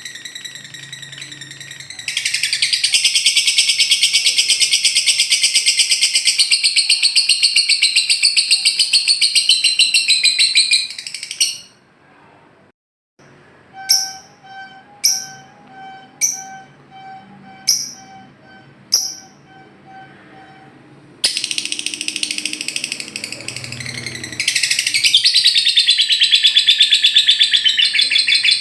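Lovebird singing its long, fast chattering trill (ngekek), two long runs of high trilling broken by a short pause. Between them come about six separate sharp chirps, a second or so apart, over a faint steady tone.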